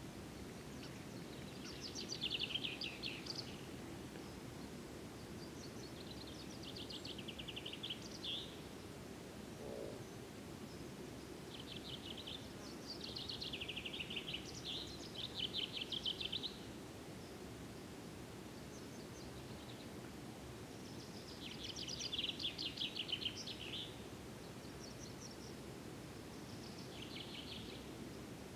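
Small songbird singing short, rapid trilled phrases, about six of them with pauses between, over steady low background noise.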